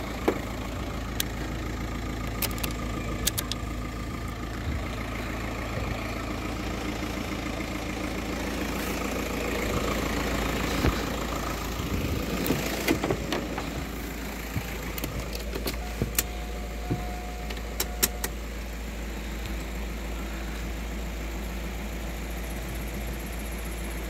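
A car engine idling steadily, running to jump-start a car with a dead battery. Scattered clicks and knocks of handling over it, a cluster of them in the middle as a car door is opened.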